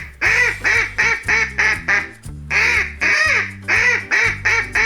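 A duck quacking in two runs of rapid quacks, about four a second, with a short break about two seconds in, over background music.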